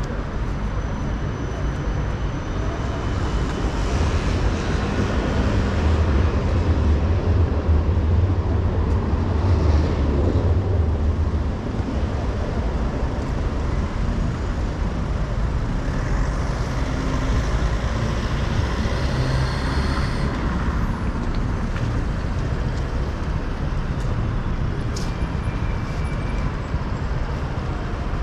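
City street traffic: a steady mix of engines and tyres, with a large vehicle passing close by, its low engine sound loudest from about four to twelve seconds in.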